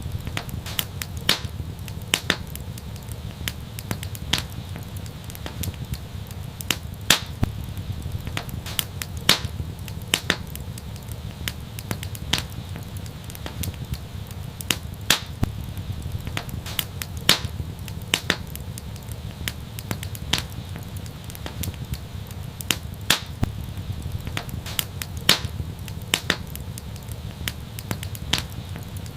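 Wood fire crackling: frequent, irregular sharp pops over a low, steady rumble of the burning fire.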